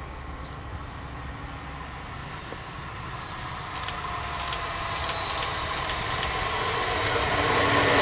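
A DB Class 425 electric multiple unit approaching on the rails, growing steadily louder, with a whine from the train coming in about halfway through and building as it nears.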